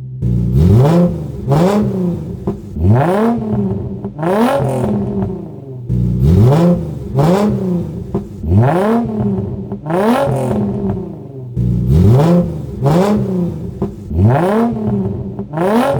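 Nissan 350Z's 3.5-litre V6 revved in quick blips through a freed-up exhaust of test pipes, a DC Sports Y-pipe and a single resonator. It comes in three runs of several revs each, every rev rising sharply in pitch and dropping back.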